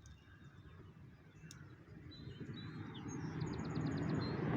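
Birds chirping, with a short rapid trill of about seven notes near the end, over a low rumbling noise that grows steadily louder through the second half.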